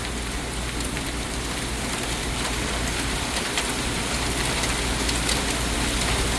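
Heavy rain pouring down in a thunderstorm: a steady hiss, growing slightly louder towards the end, with an occasional sharper tap of a drop.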